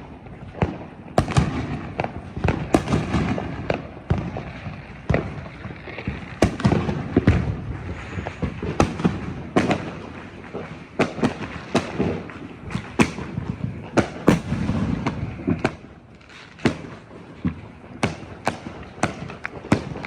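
Firecrackers and fireworks going off all around: a dense run of sharp bangs and crackles, many overlapping, with a rumbling background, thinning to scattered single pops after about 16 seconds.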